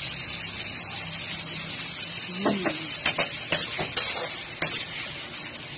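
Shrimp frying in margarine in a wok, a steady sizzle. From about halfway through, a metal spatula scrapes and knocks against the wok several times as the shrimp are stirred.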